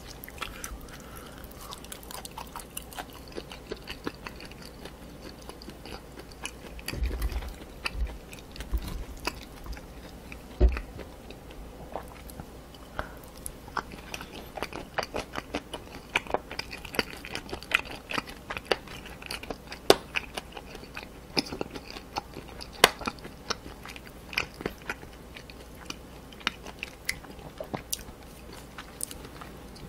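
Close-miked chewing and crunching of spicy chicken feet and pork cartilage, with wet mouth sounds and many sharp crackling clicks that grow thicker in the second half. A few dull low knocks come in the middle, the loudest about ten and a half seconds in.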